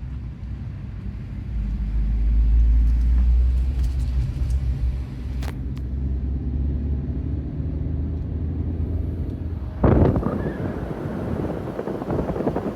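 Low, steady rumble of a car driving. About ten seconds in, wind starts buffeting the microphone.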